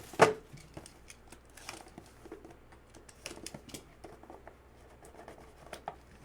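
A trading-card box being opened and its contents handled: one sharp snap or click about a quarter second in, then scattered small clicks and light rustling of cardboard and card holders.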